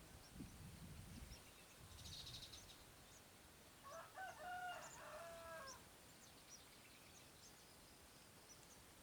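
A rooster crows once near the middle, a single call of about two seconds. Low rumbling thumps come in the first second and a half, over faint high chirps.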